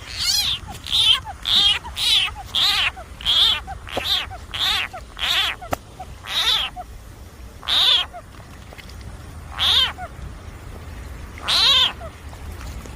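A frog screaming in distress, as when seized by a snake: high, wavering, cat-like cries about half a second each. They come about twice a second at first, then slow to one every second or two.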